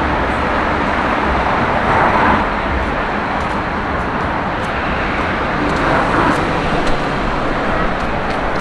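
Street traffic noise: passing cars' engines and tyres.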